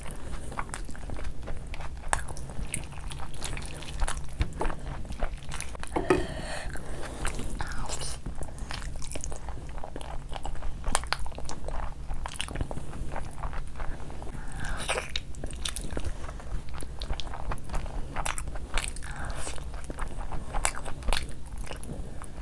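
Close-miked eating: a person biting and chewing mutton shank meat, eaten by hand, with many irregular small clicks and smacks of the mouth.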